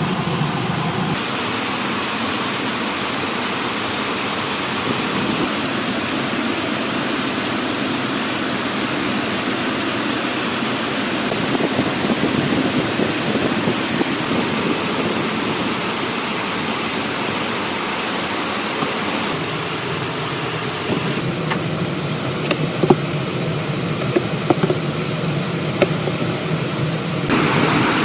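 Steady heavy rain hiss, with a few sharp knocks near the end.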